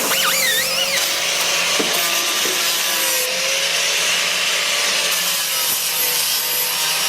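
A power tool running steadily with a rasping hiss.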